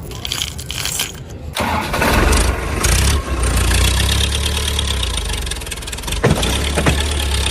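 Tractor engine starting up about a second and a half in, then running with a steady low hum. A sharp click comes near the end.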